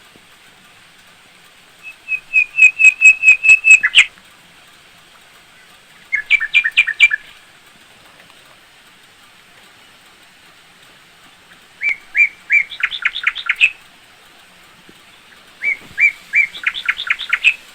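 A songbird singing four phrases of rapid repeated chirping notes, each phrase lasting one to two seconds, with pauses of a few seconds between them.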